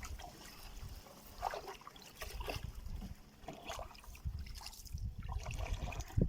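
Small boat being moved through shallow water, with irregular splashes and knocks.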